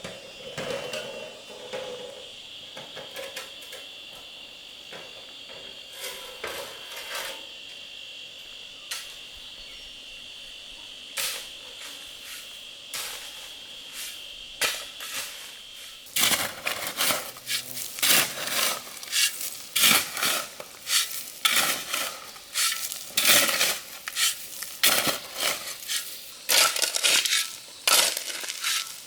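A steady high insect drone with scattered clicks. About halfway through the drone stops and a run of loud, irregular crunching strokes follows, several a second.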